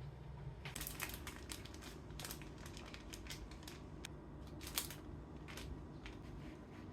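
Light clicks, taps and scrapes of small objects being handled, with one sharper click near the middle.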